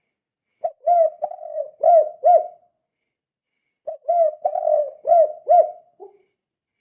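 Spotted dove (tekukur) cooing in the 'kuk 2' style: two phrases of several arched, rounded coos, the second phrase ending on a lower note.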